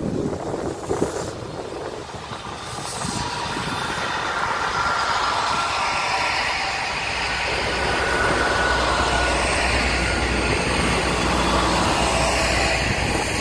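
Great Western Railway diesel multiple unit running past close by: its engines and wheels on the rails rumble, growing louder over the first few seconds and then holding, with a thin whine above the rumble. Wind thumps on the microphone at the start.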